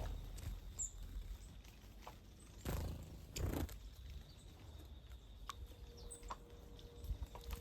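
Wild birds bathing in a shallow water bath: two short splashes about three seconds in, with a few faint high chirps.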